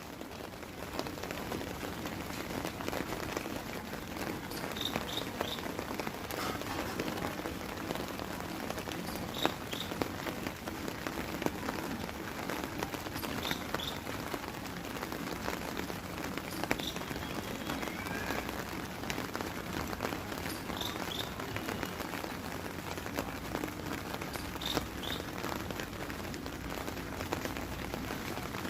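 Steady rain falling and pattering on surfaces, with many small drop ticks. Short high chirps come in groups of two or three every few seconds.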